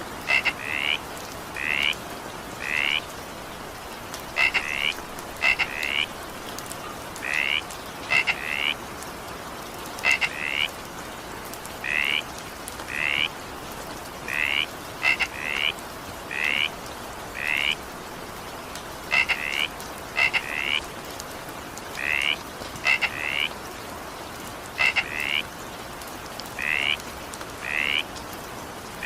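Frogs calling in short repeated croaks, often in quick pairs, about one or two calls a second, over the steady hiss of rain.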